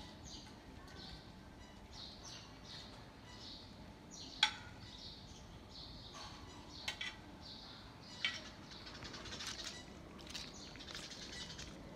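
Faint, repeated bird chirps, with a few sharp clicks of a spoon striking the plate and pot as cabbage is scraped in; the loudest click comes about four seconds in.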